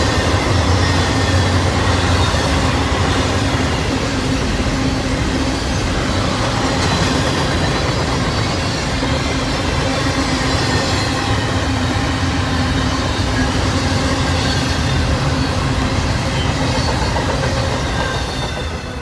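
Double-stack intermodal container train rolling past: steel wheels on the rails make a steady, loud running noise with a faint high squeal. The last car passes near the end and the sound starts to fade.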